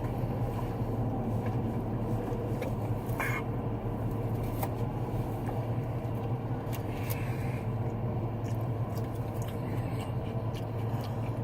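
Steady low hum of a car engine idling, heard from inside the cabin, with a few light clicks.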